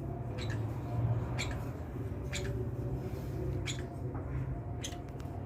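Small birds giving short, high chirps, about one a second, over a steady low hum.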